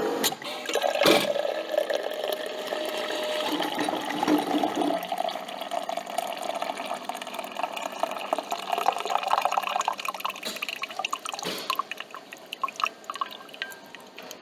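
Coffee machine: its motor hum cuts off with a click, then liquid trickles and drips into the cup, slowly dying away, with another click or knock about eleven seconds in.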